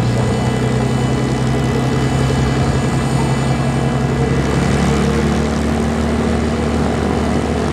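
Single-engine aerobatic propeller plane, an MXS-RH, in flight: its engine and propeller drone steadily, then shift in pitch about five seconds in.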